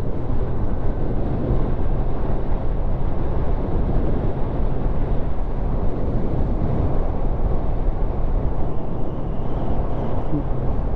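Kawasaki motorcycle riding at a steady speed: a low, even engine hum under constant wind and road noise.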